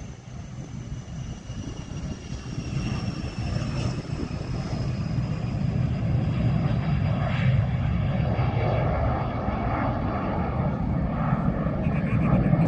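Turbine aircraft engines growing steadily louder, a high whine gliding slowly down in pitch over a deepening rumble.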